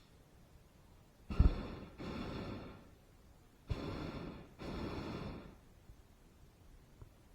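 Hot air balloon's propane burner fired in four short blasts, two quick pairs of rushing noise, the first opening with a thump.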